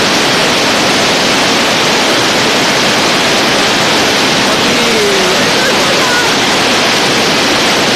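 Hail and heavy rain pelting down in a dense, steady hiss of countless small impacts.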